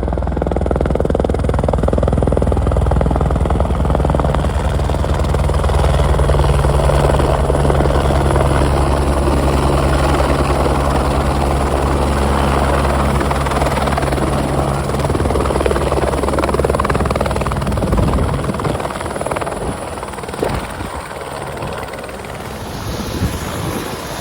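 Helicopter running close by, loud rotor and engine noise with a steady low throb that drops away about 18 seconds in.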